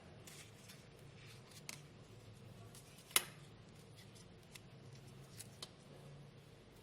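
Faint crinkling and small ticks of crepe paper being handled and pressed into place by hand, with one sharp click a little after three seconds in.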